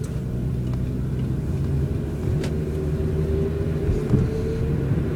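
Steady low rumble of a car driving, heard from inside the cabin, with a faint whine that rises slightly in pitch from about two seconds in and one light click midway.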